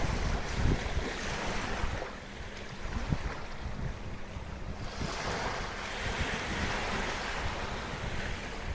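Small sea waves washing onto the shore of a quiet bay, swelling and fading, with a winter wind buffeting the microphone, heaviest near the start.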